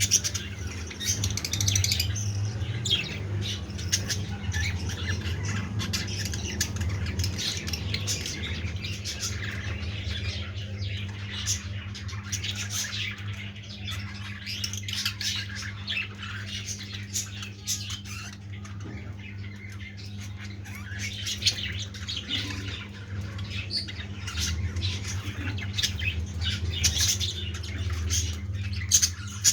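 A group of blue masked lovebirds chattering with constant short, shrill chirps and squawks. A steady low hum runs underneath.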